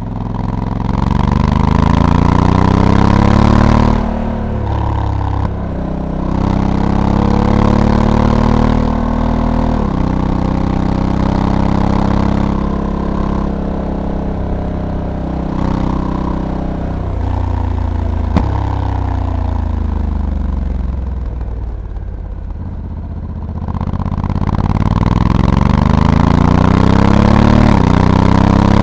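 Honda Africa Twin's parallel-twin engine under way, its pitch climbing as it accelerates and dropping sharply a few times as the dual-clutch gearbox shifts or the throttle closes. Later it winds down over several seconds and then rises again near the end, with wind rushing over the bike.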